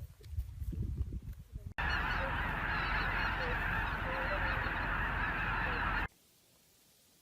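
A flock of geese honking all at once in a dense, continuous din, starting abruptly after a second and a half of low, irregular bumping. It cuts off suddenly about six seconds in.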